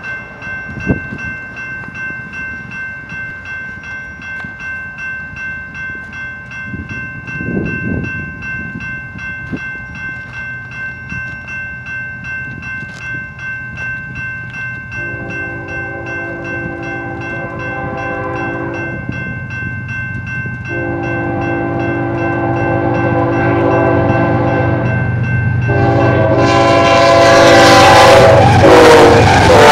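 Railroad crossing bells ringing steadily with a fast even pulse while an approaching BNSF freight train, led by a GE ES44C4 diesel, sounds its horn in three long blasts from about halfway through. In the last few seconds the locomotives reach the crossing and the engines and wheels grow loud.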